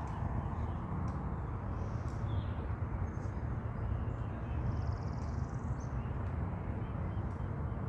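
Steady low rumbling background noise with a few faint, short bird chirps high above it, one a brief trill about five seconds in.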